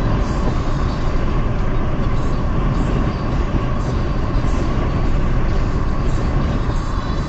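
Steady road noise of a car driving on a highway: a continuous low rumble of tyres and engine.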